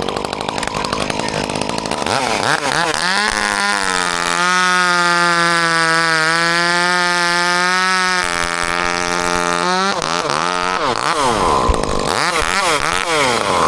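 Chainsaw revving up and running at full throttle for a few seconds, cutting branch wood, then dropping back and revving in several quick blips near the end.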